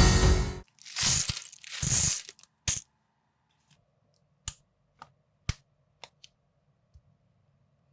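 Two short crinkling rustles of plastic, then a series of sharp, single plastic clicks about half a second apart as building bricks are handled and snapped together.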